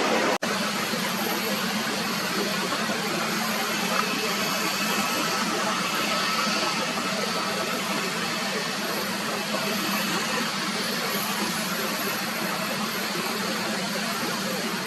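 Jet airliner engines running steadily: an even jet roar with a faint high whine, which drops out for an instant just after the start.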